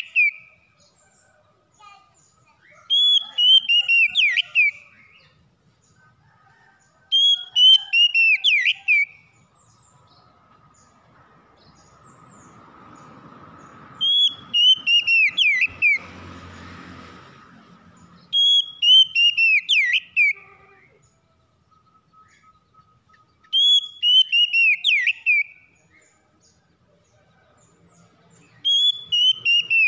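Oriental magpie-robin (kacer) singing the same short, bright whistled phrase over and over, about every four to five seconds: a run of falling slurred notes with quick upswept chirps. In the middle a low rumbling noise swells up under the song and fades away.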